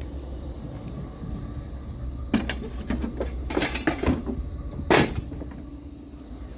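Low, steady vehicle rumble, with a run of knocks and rattles in the middle and one loud bang about five seconds in.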